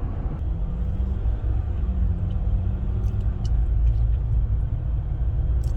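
Inside the cabin of a 2021 Jeep Wrangler EcoDiesel cruising at steady speed: a steady low rumble of engine and road noise, with a faint hum over it for a few seconds.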